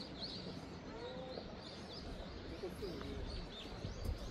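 Small birds chirping: many short, quick high calls scattered throughout, with a few lower sliding calls, over a steady low background rumble.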